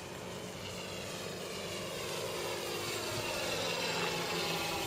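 Quarter-scale Hangar 9 Piper Super Cub RC model plane in flight, its propeller and Benedini sound module's simulated engine sound growing louder as it comes closer, the pitch gliding.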